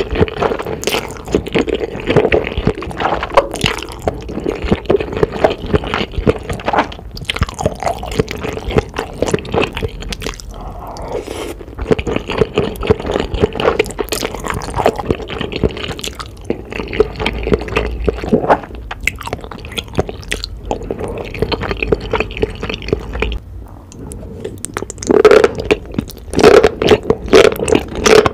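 Close-miked wet slurping and chewing of black bean noodles in thick, sticky sauce: a dense run of smacking, squishy mouth sounds. It eases off briefly near the end, then comes back louder.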